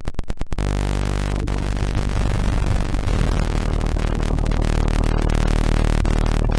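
Electronically generated tones from a frequency generator, harsh and buzzing. About half a second in, a rapid pulsing gives way to a steady stack of droning tones, and the lower tones change pitch again about three seconds in.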